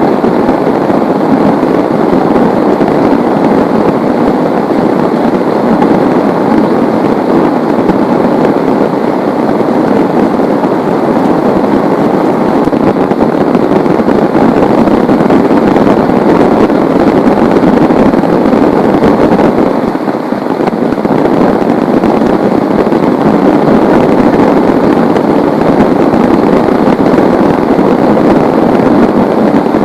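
Heavy rain pouring down in a loud, steady, dense patter, easing slightly for a moment about twenty seconds in.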